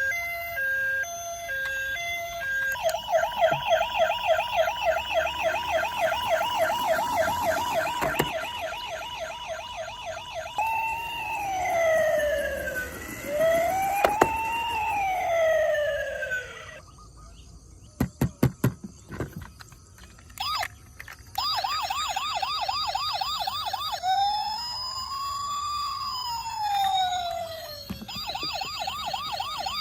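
Toy emergency vehicles' electronic sirens: a fast warbling yelp, then a slow rising and falling wail, a short pause with a few clicks just past the middle, then the fast warble and slow wail again.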